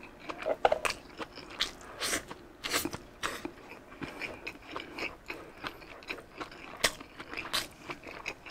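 Close-miked chewing of a mouthful of beef tapa and rice, with irregular wet smacks and sharp clicks, a few a second.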